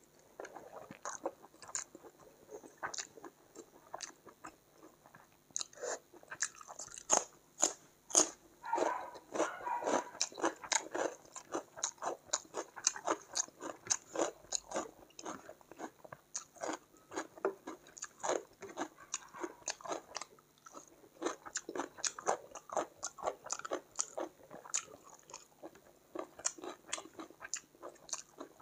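Close-miked eating sounds of a person eating rice and chicken curry by hand: chewing and wet mouth sounds, with many quick, irregular sharp clicks.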